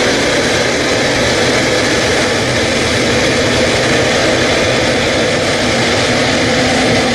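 Jet airliner engines running steadily: a constant loud rush of noise with a faint steady whine on top.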